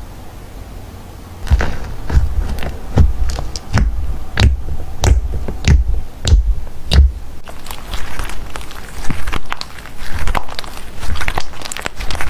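Slime being squished and pressed by hand: a run of sharp clicks and pops, many with a dull thud, about one or two a second after a quieter start.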